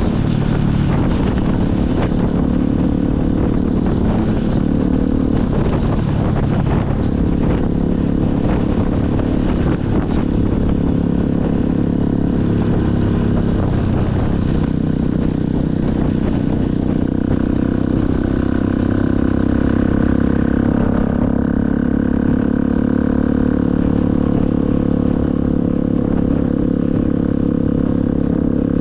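Motorcycle engine running while riding, its note shifting down and back up a few times with throttle and gear changes.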